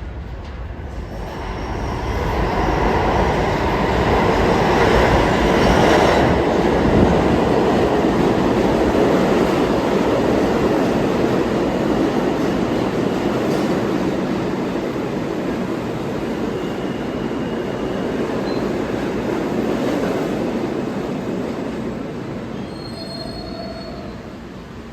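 New York City subway train running into the station, with loud rumbling rail noise and some wheel squeal; the noise builds about two seconds in and eases off near the end as the train slows.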